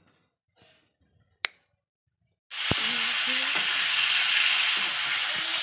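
Chicken pieces sizzling loudly in hot oil in a wok, starting suddenly about halfway through, while a metal spatula scrapes and stirs them around the pan. Before that, only faint handling sounds and one sharp click.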